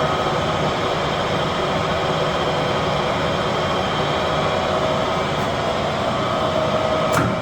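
Standard Modern 1640 tool room lathe running under power, its 10 hp three-phase drive and geared headstock giving a steady whir with a faint held whine. A single sharp click near the end.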